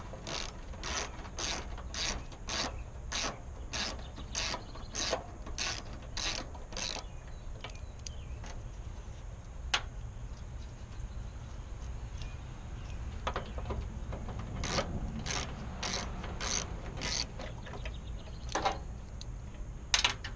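Ratchet wrench with a 10mm socket clicking as it is swung back and forth, about two clicks a second, backing out the turn signal mounting bolts. A run of clicks for about seven seconds, a pause, then more ratcheting in the second half.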